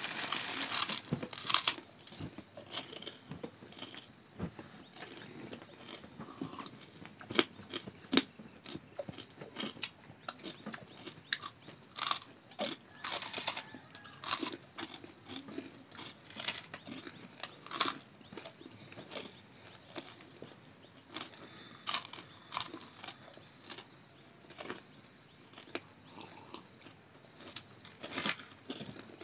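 Close-miked chewing and crunching of fried food: irregular crisp crunches and mouth clicks as two people bite and chew.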